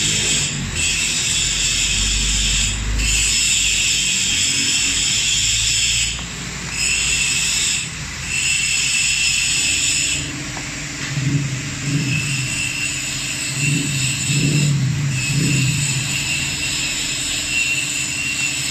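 A steady high buzz from workshop equipment that cuts out briefly several times, with lower pulsing rumbles in its second half.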